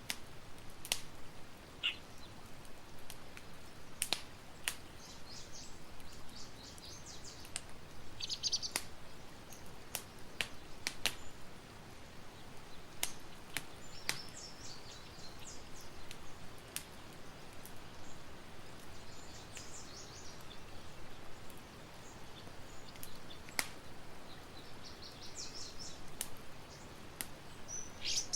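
Campfire crackling, with sharp irregular pops over a soft steady hiss, while small birds chirp in short high bursts every few seconds.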